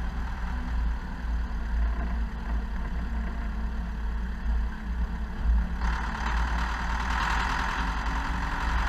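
Zetor Proxima 80 tractor's diesel engine running steadily with a deep, low rumble; a rushing noise grows louder about six seconds in.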